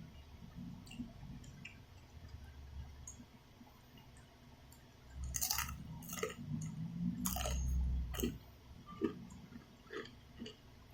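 A person eating black bean ramyun noodles close to the microphone: soft wet chewing and mouth clicks, louder for a few seconds about halfway through.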